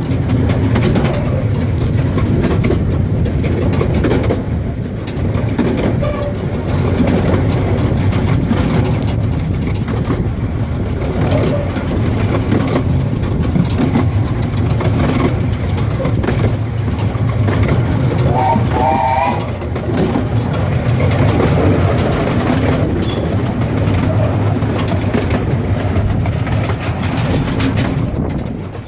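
Miniature railway train running along the track, heard from on board: a steady low rumble of wheels on rail, with faint irregular knocks.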